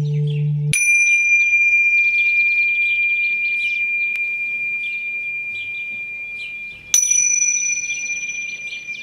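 A low, wavering singing-bowl tone cuts off abruptly under a second in. A small high-pitched bell is then struck twice, about six seconds apart, each strike ringing one clear note that fades slowly. Birds chirp throughout.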